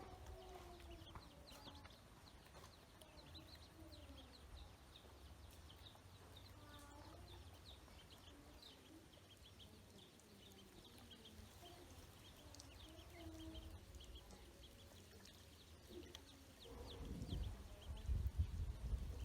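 Ducklings peeping, many short high chirps over and over, with a few lower calls mixed in. Some louder low thumps come near the end.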